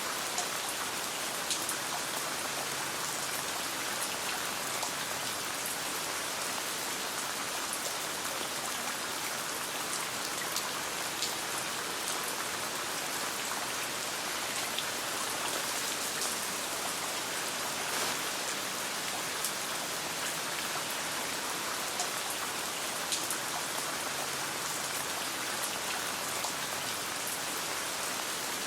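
Steady rain falling, a dense even hiss with scattered sharp ticks throughout.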